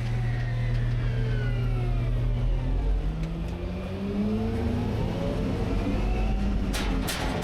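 Rear-load garbage truck's engine running, its pitch sinking and then rising again as it revs. A few sharp clanks come near the end.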